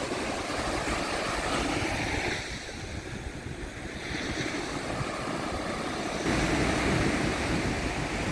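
Gulf surf washing onto the beach, with wind buffeting the microphone. The wash eases a few seconds in and builds again about six seconds in.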